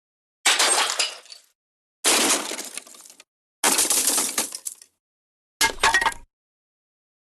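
The MGM 'Elephant Smash' cartoon crash sound effect, a smash of breaking glass, played four times in a row, each about a second long with dead silence between. The fourth is shorter, with a low thud under it.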